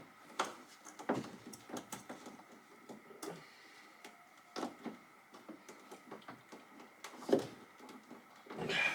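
Hand work on parts and fittings: irregular light clicks and knocks, with one louder knock about seven seconds in.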